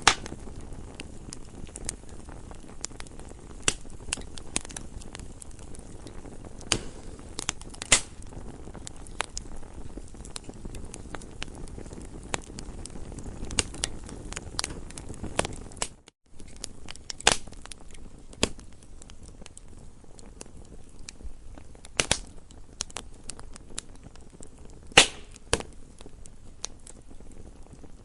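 Campfire burning with a steady low hiss and irregular crackles and sharp pops of burning wood, a few of them loud. The sound cuts out for a split second about halfway through.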